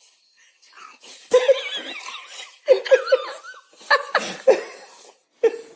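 A person laughing in several separate bursts, some of them quick pulsing chuckles.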